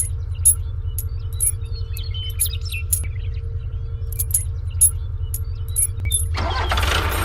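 A steady low motor rumble with a dozen or so light metallic clicks and clinks scattered over it; a louder noisy rush comes in near the end.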